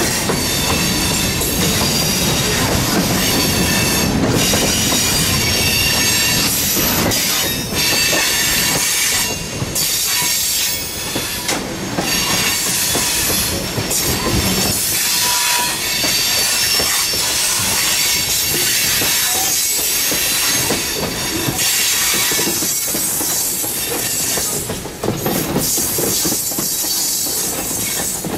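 Freight train rolling by, its steel wheels squealing high and steadily against the rail, over a continuous rumble of the train in motion.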